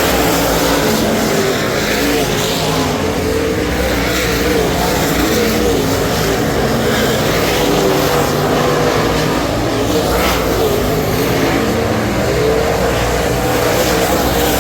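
Dirt super late model's Ford 422 cubic inch V8 racing engine running hard on track. The engine note rises and falls again and again as the throttle comes on and off.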